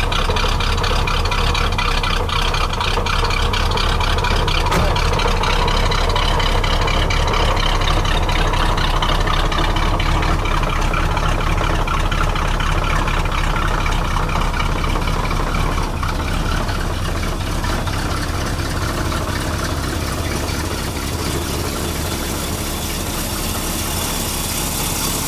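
1965 Pontiac Catalina's V8 idling steadily at a slow 550 rpm, with a deep, even exhaust note.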